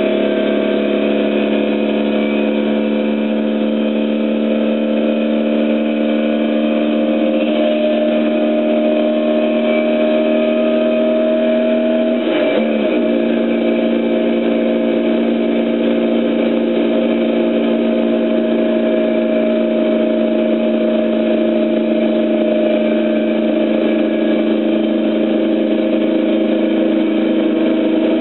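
Classic car's engine heard from inside the cabin while driving, holding a steady note. There is one brief dip and recovery in pitch about twelve and a half seconds in.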